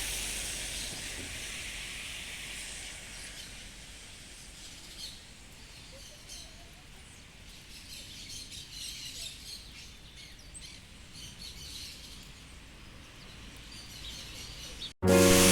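Birds chirping over a steady hiss of rain; the hiss fades over the first few seconds, leaving scattered short high calls. Music cuts in abruptly at the very end.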